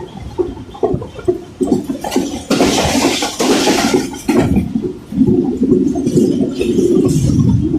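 Running noise of a moving passenger train through an open carriage door: a loud, uneven rumble and rush, with a brighter hissing rush lasting about a second and a half from roughly two and a half seconds in.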